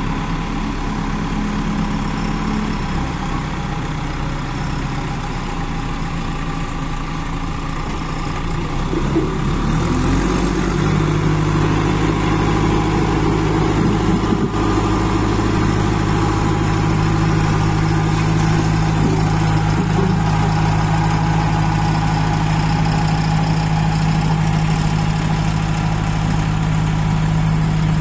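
Kirloskar diesel engine of a JCB 2DX backhoe loader running steadily. About ten seconds in, the engine speed picks up to a higher pitch and holds there.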